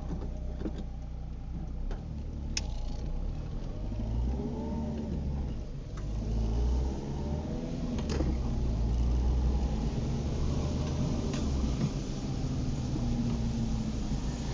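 Car driving in the rain: a steady low engine and road rumble, with the engine's pitch rising and falling a few times as it speeds up and slows, and a few sharp clicks.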